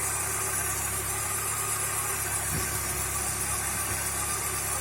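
Volkswagen Passat B3 engine idling steadily, with noise from its alternator belt drive. The owner puts it down to the V-belt slipping on worn alternator, crankshaft and water pump pulleys and to worn alternator bearings; a new belt has not cured it.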